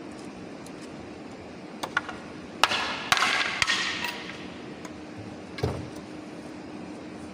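Workshop knocks and clatter of wood being handled: a few light knocks, then a loud sharp hit with a rattling, scraping tail and more knocks in it, and one dull thump near the end, over a steady low hum.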